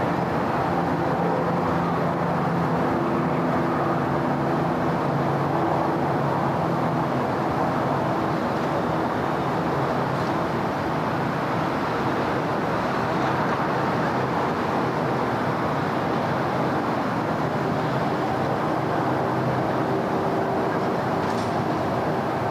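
Steady city road traffic: a continuous wash of tyre and engine noise from passing vehicles, with a low engine hum standing out over the first several seconds. A brief faint high sound comes near the end.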